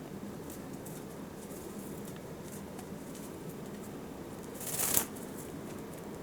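Cockatiel preening: faint rustling and small clicks of its beak working through its feathers, then one loud, brief feather rustle that swells and stops abruptly about five seconds in.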